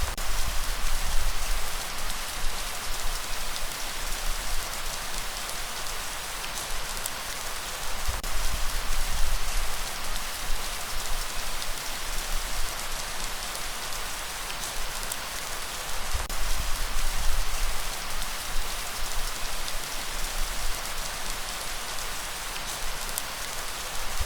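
Steady rain falling: a dense, even hiss with scattered drop ticks. A low rumble swells for a couple of seconds about every eight seconds.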